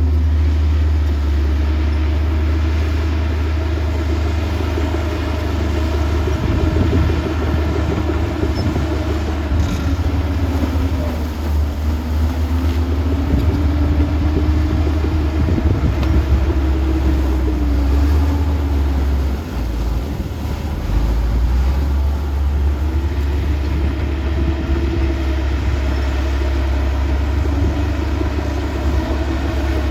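Heavy diesel earthmoving engine running with a deep rumble, its pitch rising and falling several times as it revs under load.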